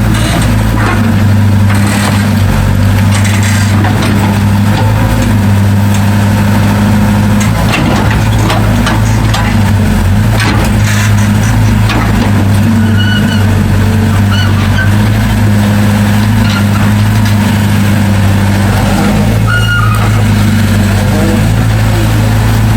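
Heavy diesel engine of earthmoving equipment running with a steady low hum, with scattered brief clanks and knocks.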